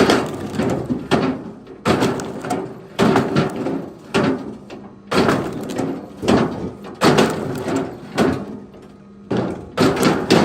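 Wood knocking and clattering: a run of sharp wooden thuds about one a second, each trailing off in a short rattle, like pieces of wood landing on one another.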